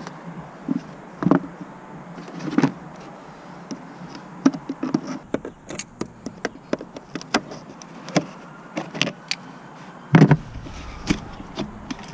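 Irregular clicks, taps and knocks of hand tools working on metal, with a heavier cluster of knocks about ten seconds in.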